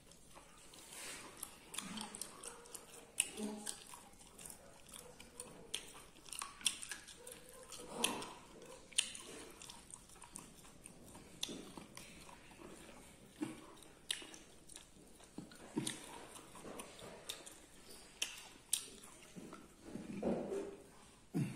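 Close-up mouth sounds of a person eating beef: chewing and biting, with irregular wet smacks and clicks several times a second.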